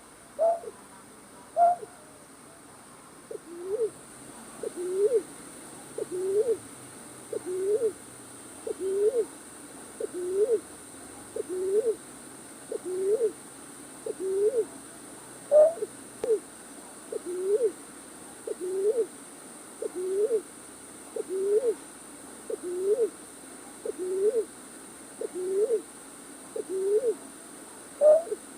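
Night bird's hooting call: a short note repeated steadily about every one and a half seconds, with a few higher notes near the start. This is the kind of call played to lure night birds into traps.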